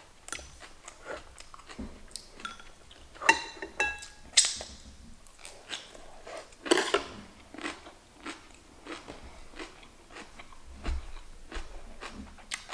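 Close-miked mouth sounds of a person biting and chewing crunchy cabbage kimchi: irregular crisp crunches and wet smacks, with a few louder crunches spread through.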